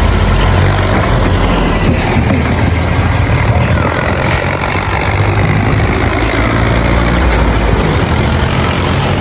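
Engine sound running steadily, a low rumble like an idling heavy vehicle.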